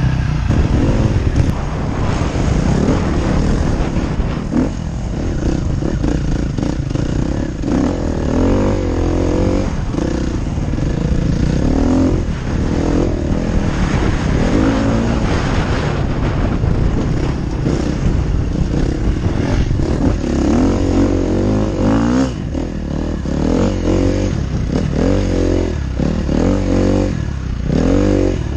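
Dirt bike engine being ridden hard, its revs rising and falling again and again.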